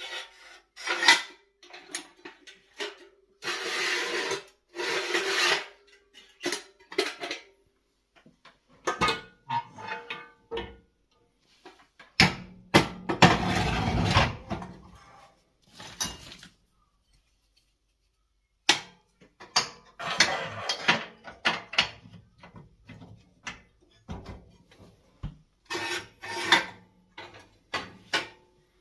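Hands handling the parts of a fireplace pellet device: intermittent scraping, rubbing and knocks in short bursts with pauses, with a longer rattling, scraping stretch about twelve seconds in.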